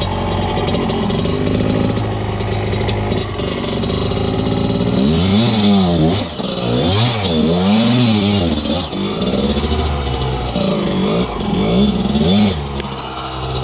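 Enduro dirt bike engine running, its revs rising and falling again and again from about five seconds in as the throttle is worked on and off.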